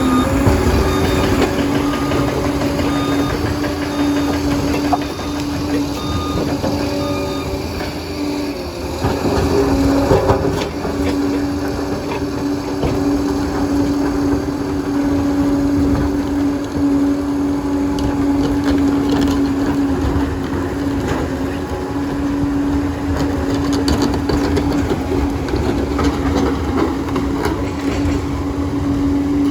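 Bulldozer's diesel engine running steadily with a constant whine. A reversing alarm beeps about once a second for the first eight seconds or so.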